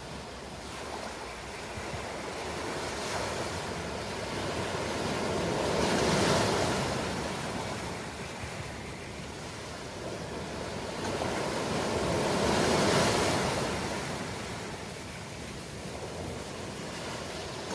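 Ocean waves surging and washing onto a shore: a steady surf hiss that swells into two louder breakers, about six seconds in and again near thirteen seconds.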